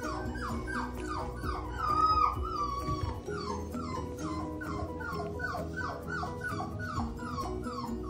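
Four-week-old puppy whimpering in a rapid run of short, high, falling squeaks, about three a second, with one longer, louder whine about two seconds in. Background music plays underneath.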